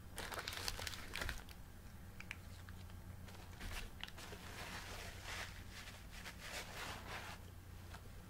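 Close-up chewing of a bite of sausage, egg and cheese McGriddle: faint wet mouth clicks and smacks in irregular clusters.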